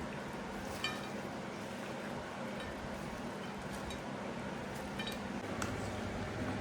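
A few light clinks and taps of kitchenware over a steady background hum.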